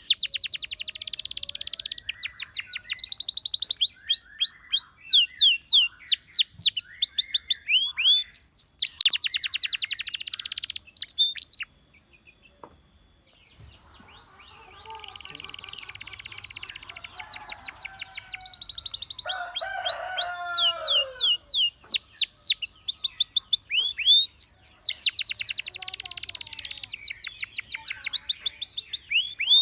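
Domestic canary singing: fast runs of repeated downward-sweeping whistled notes and buzzy rolled trills. The song breaks off for about two seconds near the middle, then resumes, with a lower twittering phrase about two-thirds of the way through.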